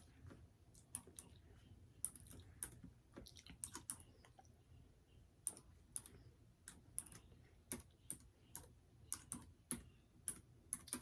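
Irregular key clicks of someone typing on a keyboard, a few taps a second with short pauses, over a low hum.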